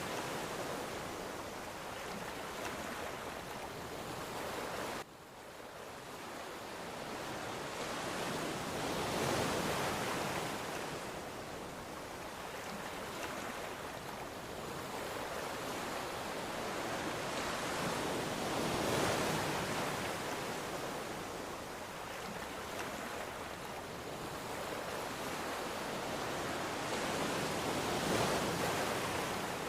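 Ocean waves breaking and washing ashore, the surf swelling and fading in long surges about every nine or ten seconds. The level drops suddenly about five seconds in, then builds back up.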